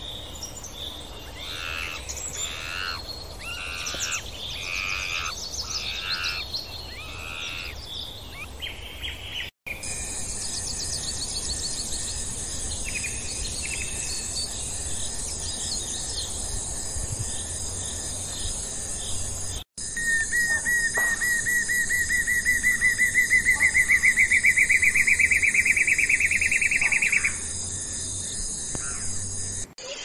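Wild bird calls in a nature soundscape: repeated chirping calls at first, then a steady high-pitched hum with scattered chirps. About two-thirds of the way in, a loud rapid trill starts and rises slowly in pitch for about seven seconds before stopping suddenly.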